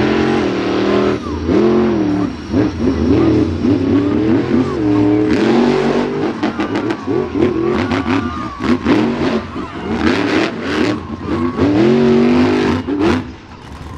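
Monster truck engine being revved over and over, its pitch climbing and falling with each blip of the throttle, with sharp crackles in the second half.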